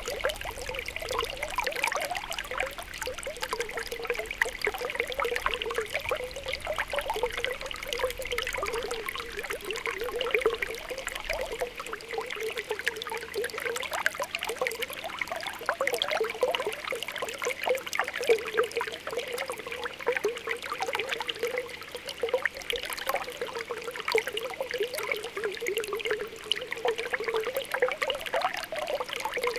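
Spring water welling up from the ground, bubbling and popping without a break as many small bubbles burst at the surface.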